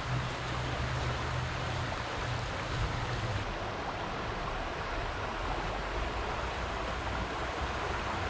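Steady rushing of the creek's flowing water, with a low hum underneath that stops about three seconds in.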